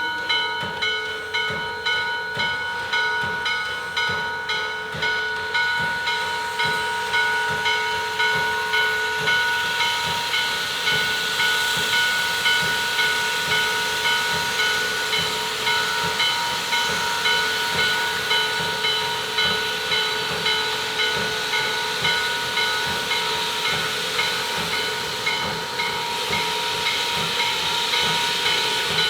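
Steam locomotive working with a regular exhaust beat, about one and a half chuffs a second, over a steady steam hiss with several high, steady tones.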